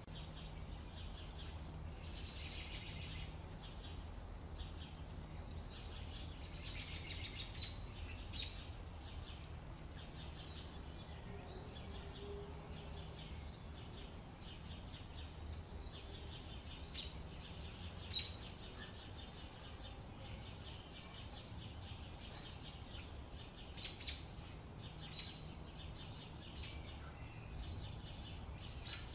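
Small birds chirping in short, sharp calls, with a rapid trill about two seconds in and another about seven seconds in, over a low steady rumble.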